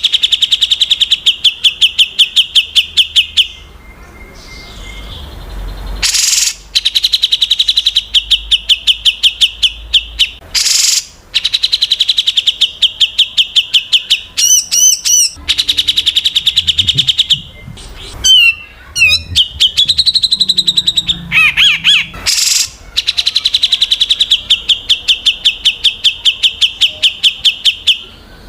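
Recorded songbird calls of the kind played as 'isian' filler song for training white-rumped shamas: long runs of loud, rapid repeated chip notes, about ten a second, broken by short pauses and, in the middle, by a few brief warbling, gliding whistled phrases.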